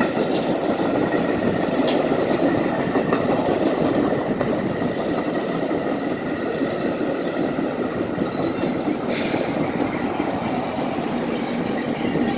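NJ Transit passenger train of double-deck coaches rolling past at a grade crossing: the steady, loud rumble of its wheels on the rails.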